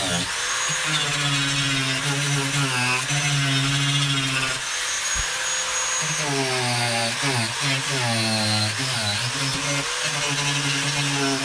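WEN rotary tool with a diamond disc grinding a fire-damaged van body panel: a high motor whine over a gritty hiss, its pitch dipping and recovering again and again as the disc bites under load.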